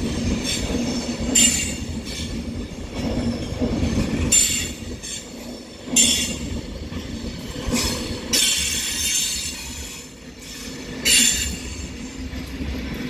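Avanti West Coast Class 390 Pendolino electric train pulling in to terminate, over a steady low rumble. Its wheels squeal in about five high-pitched bursts, the longest about two-thirds of the way through.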